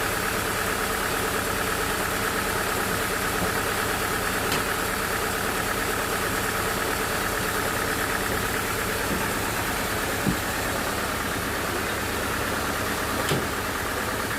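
Sawmill running steadily, a constant machine noise with a sustained mid-pitched hum, broken by three brief faint knocks.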